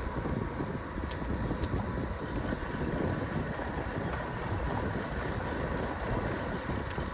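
Wind buffeting the microphone during a bicycle ride, a steady low rumble with faint road and tyre noise.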